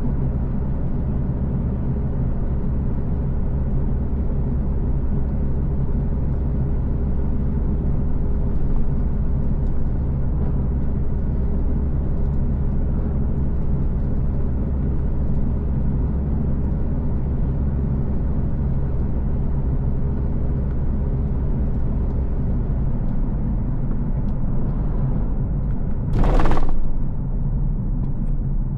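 Car driving on the road: steady low engine and road rumble, with a brief loud rush of noise near the end.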